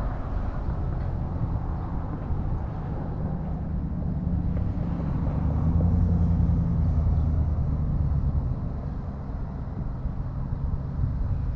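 Low, steady engine-like rumble outdoors that swells through the middle and eases off again.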